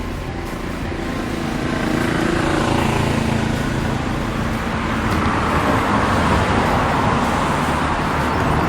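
Road traffic: the engine and tyre noise of passing motor vehicles, growing louder over the first two seconds and then holding steady.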